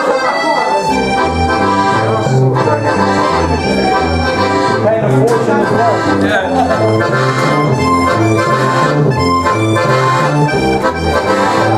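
Accordion music: a lively tune over a steady bass line that steps to a new note about twice a second.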